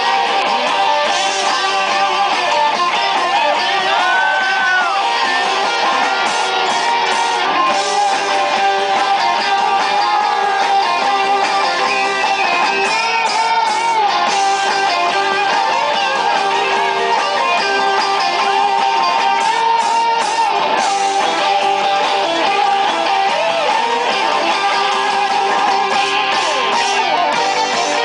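Live rock band playing loud and steady, an electric guitar lead with sustained, bending notes over strummed rhythm guitar and bass: the long instrumental guitar section of a Southern rock song.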